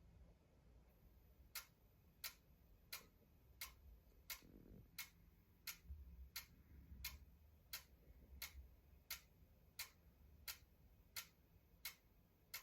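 An electronic device in sleep mode giving off faint, sharp clicks at a steady rhythm of about one every 0.7 seconds, starting about a second and a half in; an unexplained clicking the owner does not know the cause of.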